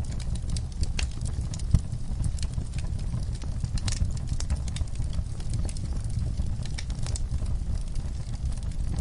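Wood fire crackling in a fireplace: irregular sharp pops and snaps over a steady low rumble from the flames, with one louder pop about two seconds in.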